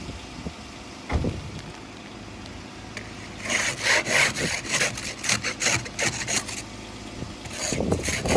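Ice scraper working over an ice-coated car windshield in quick, rasping back-and-forth strokes. The strokes start about three seconds in, pause briefly, and pick up again near the end.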